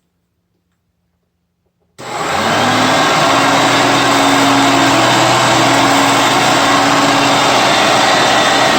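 A Hoover Concept One vacuum cleaner is switched on about two seconds in, its motor spinning up with a rising whine, then running steadily and loud.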